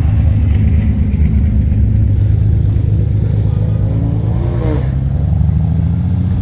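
A car engine running with a loud, deep, steady rumble, its pitch creeping up a little in the second half.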